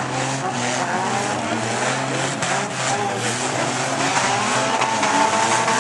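Several demolition derby cars running hard at once, engines revving in rising and falling whines and wheels spinning and squealing as they push against each other, with a few faint knocks of contact.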